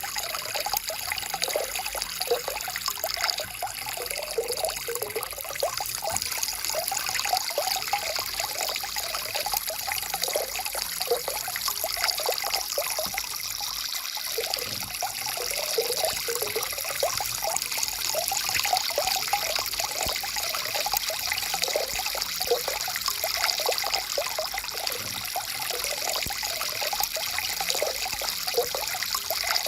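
Stream water flowing steadily, with a constant bubbling trickle.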